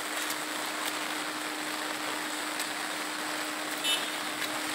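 Light, steady rain falling on wet pavement: an even hiss with scattered small drip ticks and a faint steady hum underneath. A brief high squeak sounds about four seconds in.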